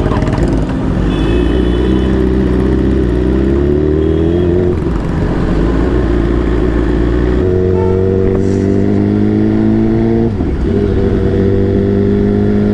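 Superbike engine accelerating through the gears, its pitch climbing and then dropping at a gear change about five seconds in and again about ten seconds in.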